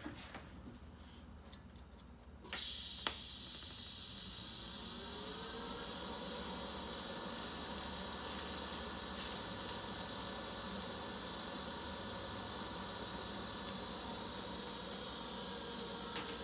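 TIG welding arc running a weld between a cast iron manifold and a stainless steel V-band: a sharp click as the arc strikes about two and a half seconds in, then a steady buzzing hiss held for about thirteen seconds, stopping with a couple of clicks near the end.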